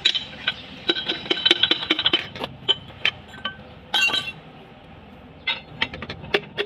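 Metal clinking: hand tools and metal parts striking one another in sharp, ringing clicks. There is a quick run of clinks over the first couple of seconds, a cluster about four seconds in, and a few more near the end.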